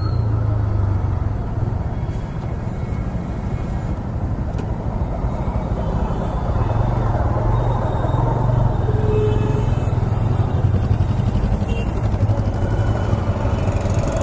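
TVS Raider 125's single-cylinder engine and exhaust running under way on the road, the engine note getting louder about halfway through.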